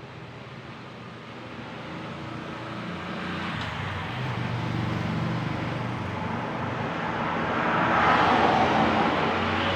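An engine growing steadily louder as it approaches, with a low hum under a rising rush of noise that is loudest near the end.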